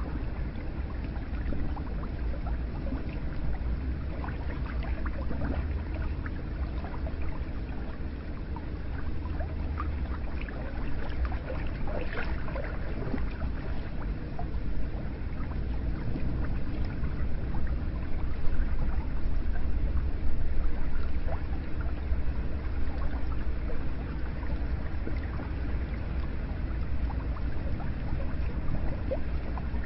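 Hot spring water running and splashing steadily, with a deep low rumble under it and scattered small drips and splashes.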